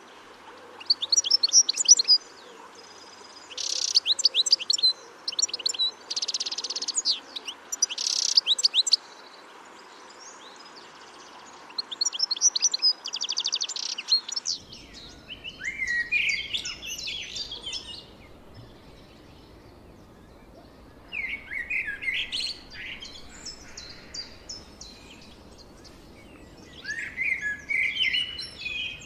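Small songbirds singing in two separate recordings. In the first, fast trills of repeated high notes come in short bursts. After an abrupt change about halfway through, the second has shorter twittering phrases with pauses between them.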